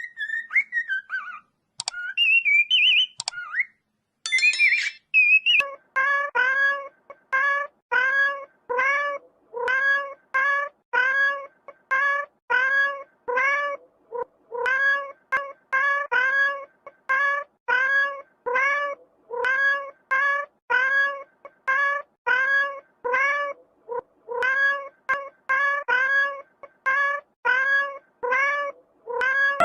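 A few seconds of high whistling chirps, then a cat meowing over and over, about two short arching meows a second, each one alike.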